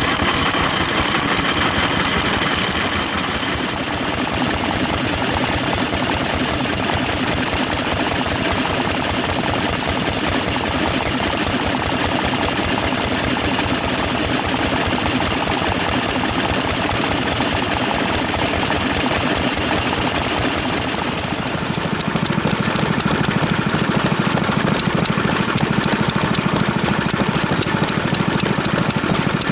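Old stationary engines (hatsudoki) running with a fast, even beat of firing strokes. About two-thirds of the way through, the sound shifts lower and a little louder, as another engine comes to the fore.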